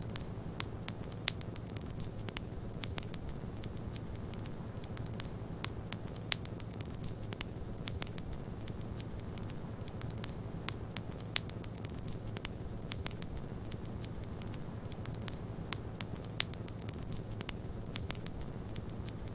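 Wood fire crackling in a fireplace: a steady low rumble of burning with frequent small irregular crackles and a few sharper pops.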